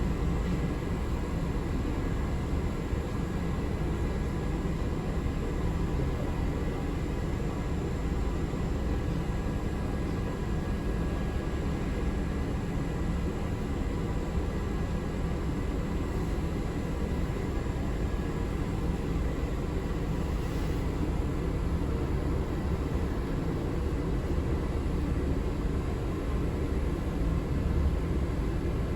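Steady low rumble of a moving city transit vehicle as heard from inside the passenger cabin, with a few faint steady tones above it.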